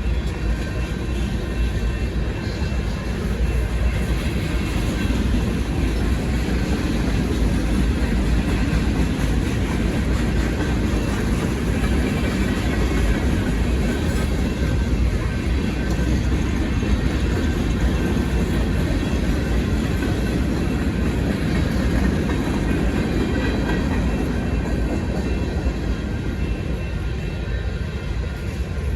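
Cars of a manifest freight train rolling through a grade crossing: a steady loud rumble of wheels on rail, with crossing bells ringing over it.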